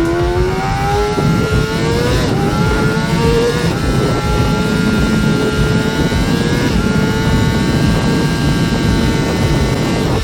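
Honda CBR600RR's 599 cc inline-four engine at high revs, its pitch climbing over the first few seconds and then holding nearly steady for the rest.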